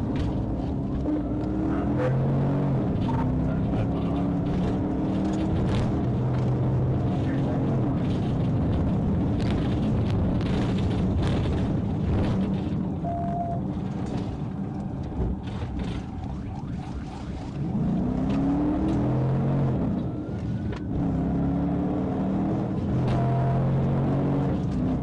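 Police cruiser's engine pulling hard in a pursuit, its revs climbing and then dropping back as it shifts, over heavy road and wind noise with occasional knocks.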